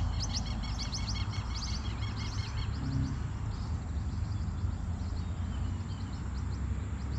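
A bird calling in a quick series of repeated high chirps for the first couple of seconds, then only a few scattered chirps, over a steady low rumble.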